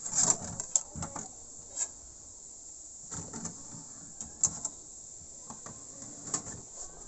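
A DVD disc and its case being handled and loaded into a player: scattered clicks and knocks, several in quick succession near the start and a few more spread through, over a steady high hiss.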